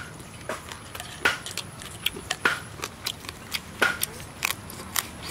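A person chewing and smacking lips close up while eating cooked rat meat by hand: irregular sharp clicks and short crunches, about a dozen in five seconds.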